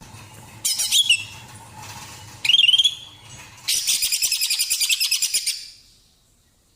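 Female green leafbird (cucak ijo) calling: two sharp calls that sweep down in pitch, then a fast rattling trill lasting about two seconds.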